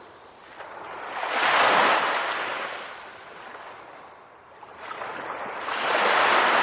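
Calm ocean waves washing up on the shore. The surf swells and fades twice, cresting about two seconds in and again near the end, with a quieter ebb between.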